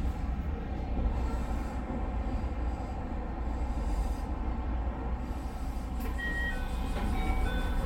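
JR West 221 series electric train running along the track: a steady low rumble, with a few short high-pitched tones at different pitches near the end.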